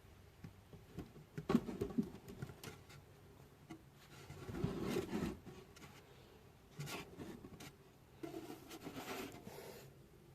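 Light handling sounds: scattered clicks and knocks, with several longer rustling, scraping passes.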